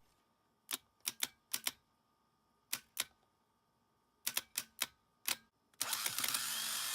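A string of short, sharp clicks, about a dozen, some in quick pairs and others spaced up to a second apart. A steady hiss starts near the end.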